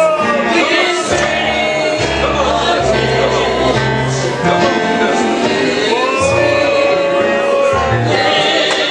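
Gospel song: voices singing long, wavering notes over an instrumental backing with a bass line.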